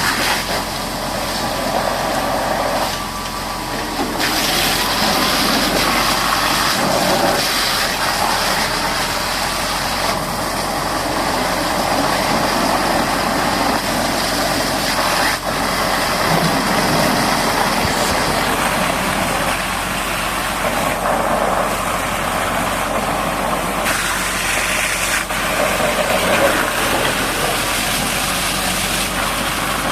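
Heavy-equipment diesel engine running steadily, mixed with a dense noise spread across the range, which changes abruptly several times.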